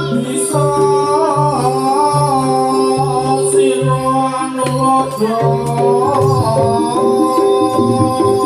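Live accompaniment for a Javanese Samboyo dance: a wavering sung or reed-like melody over held tones and a steady low drum beat.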